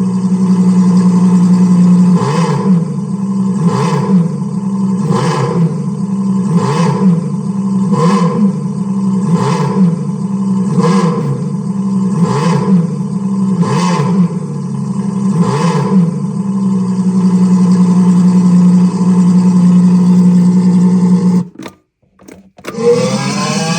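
Ferrari Enzo's naturally aspirated 6.0-litre V12 idling, blipped about ten times in a row at an even pace of roughly one rev every second and a half, then holding a steady idle. Near the end the sound cuts out briefly and comes back with the engine revving up in rising pitch.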